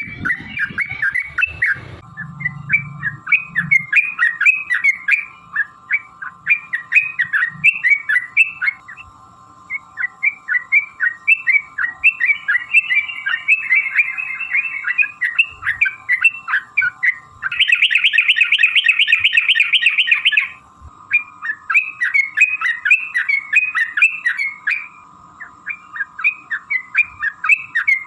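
Yellow-vented bulbul (trucukan) singing long rapid runs of short bubbly chirps, with a denser, faster trill for about three seconds past the middle. A faint steady tone runs underneath.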